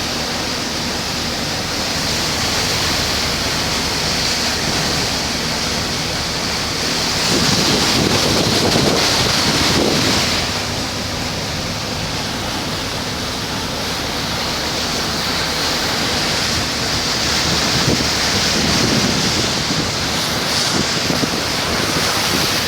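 Heavy rain pouring steadily, with a louder surge from about seven seconds in that lasts around three seconds.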